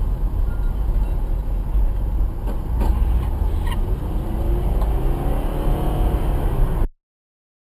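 Steady road and engine rumble of a car driving, recorded by a dashcam microphone, with a few light clicks about three seconds in. It cuts off abruptly to silence near the end.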